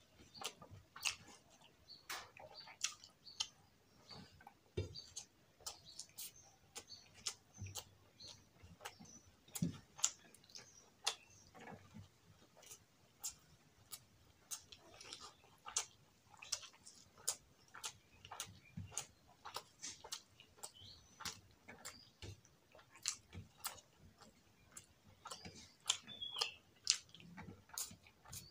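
Close-up eating sounds of rice and soya-chunk potato curry eaten by hand: irregular wet chewing and lip smacks, several a second, with fingers now and then working the rice on a steel plate.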